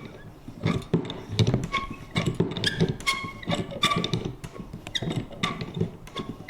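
Vintage paper punch creaking and clacking as it is worked over and over, about two strokes a second, each with a short squeaky ring.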